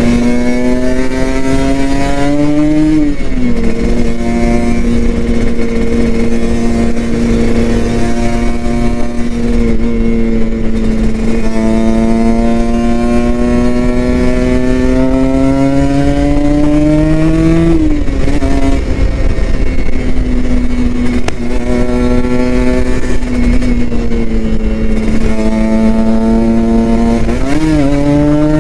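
Kawasaki Ninja RR 150's two-stroke single-cylinder engine running hard under way. Its pitch climbs slowly through each gear and drops sharply at the gear changes: about three seconds in, in the middle, and near the end.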